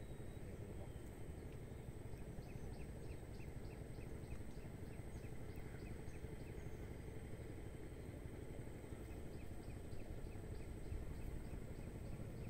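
Outdoor ambience: a steady low background rumble with a thin, steady high tone, over which a short high chirp repeats about three times a second through most of the stretch.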